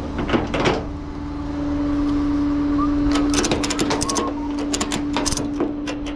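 Flatbed tow truck running, a steady low hum, with a burst of sharp clicks and rattles about three to five seconds in.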